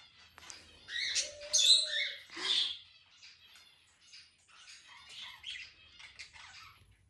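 Indian ringneck parakeet vocalizing: a loud burst of squawky calls about a second in, lasting roughly two seconds, then softer scattered chirps and chatter.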